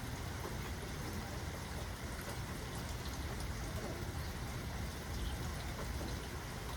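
Steady rain falling, an even wash of drops with faint scattered ticks of individual drops and no thunder.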